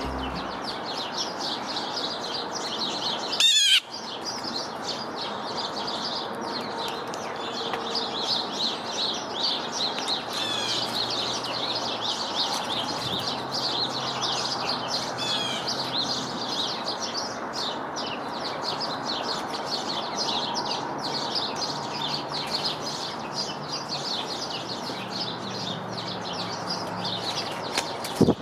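Many small songbirds chirping and twittering continuously at a bird feeder. About three and a half seconds in, one bird gives a single loud, close call, sharply rising and falling in pitch.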